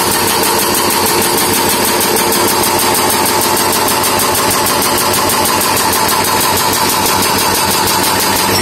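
Diesel engine of a heavy road-works machine running steadily, with a fast even pulsing.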